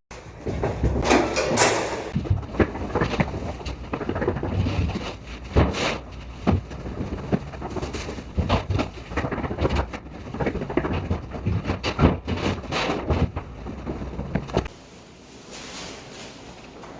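Carpentry work with wood and tools: irregular knocks, thuds and clatter, with a louder scraping stretch about a second in, going quieter about three seconds before the end.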